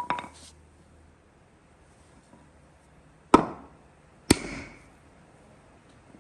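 Three sharp blows of a hand tool striking wood: one at the start, then two more about a second apart partway through, each dying away quickly.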